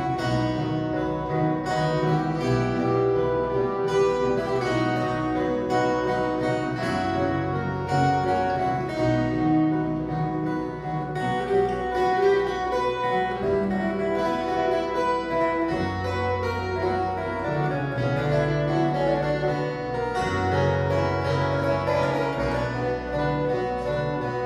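A viola caipira ensemble playing a Christmas tune: bright, metallic plucked strings over long held bass notes.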